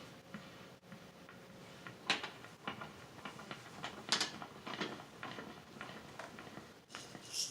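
Irregular scraping and tapping, with sharper clicks about two and four seconds in and a faint steady hum underneath at first.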